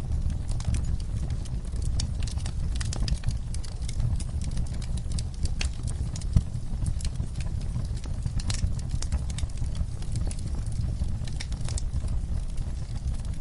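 Wood fire crackling and popping: a steady low rumble of burning under constant irregular snaps, with one sharper pop about six seconds in.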